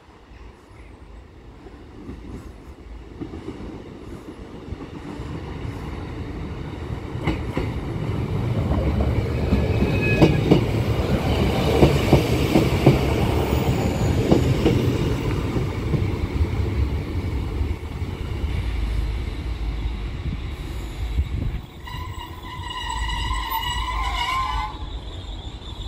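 Transport for Wales diesel multiple unit (Class 150) running into the platform close by, its engine growing louder and wheels clacking over rail joints, loudest about halfway through. Near the end a train horn sounds for about three seconds.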